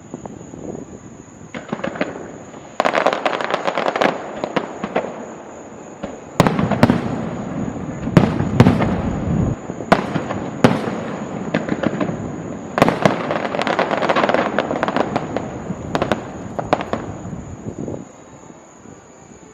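Fireworks being test-fired: rapid volleys of sharp bangs and crackling, with a few deep booms in the middle, dying away near the end.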